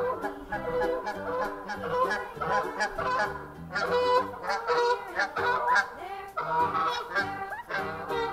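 Geese honking in a rapid series of short calls.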